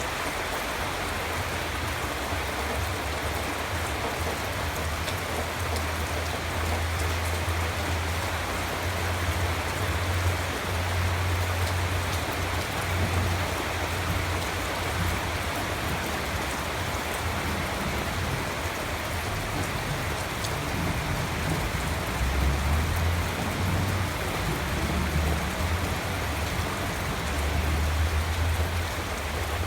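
Steady rain falling and pattering on surfaces, with a deep low rumble that swells and eases.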